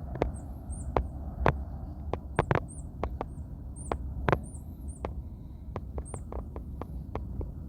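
A low outdoor rumble, fading over the first few seconds, with small birds chirping in short, high, repeated notes and scattered sharp clicks.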